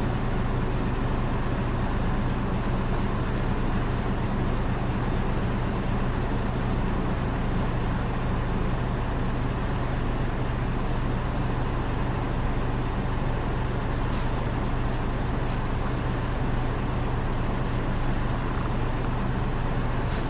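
Diesel engine of a Nissan Diesel Space Runner RA city bus running steadily, heard from inside the bus: an even low drone with road noise and no revving. The uploader calls this bus unusual-sounding, its engine note differing from other buses of the same type.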